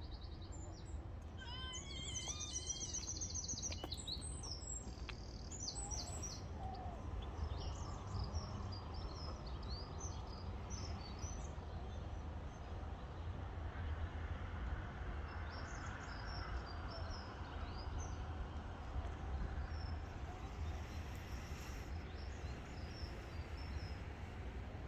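Small birds chirping and calling in short notes, with a rapid trill about two seconds in, over a steady low rumble of background noise.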